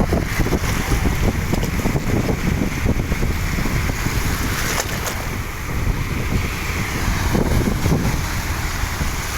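Wind buffeting the microphone: a loud, steady, rough rushing with a fluttering low rumble.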